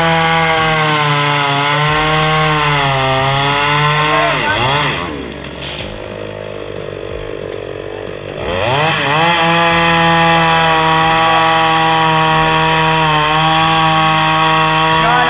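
Petrol chainsaw revved to high speed, its pitch wavering, then dropping back to idle about five seconds in. It revs up again near nine seconds and holds there steadily.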